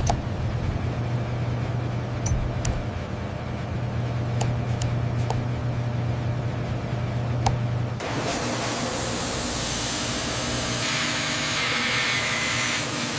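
Factory machinery running with a steady low hum and a few sharp clicks. About eight seconds in, the hum gives way to a loud, steady hiss like escaping air or spray.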